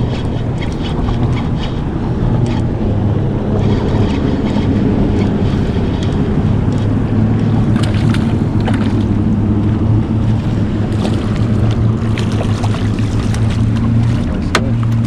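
Steady low hum of a small boat's motor, with wind on the microphone and water against the hull. A few light clicks and knocks come through, the sharpest about eight seconds in and near the end.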